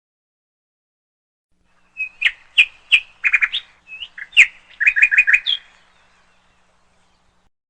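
Canary chirping: a quick run of short, sharp chirps beginning about two seconds in and stopping about four seconds later.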